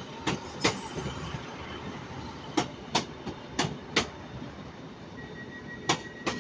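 Wheels of a slow-moving Class 156 diesel multiple unit clicking over a rail joint: four pairs of sharp clicks spread over several seconds, over a low rumble. A steady high tone comes in near the end.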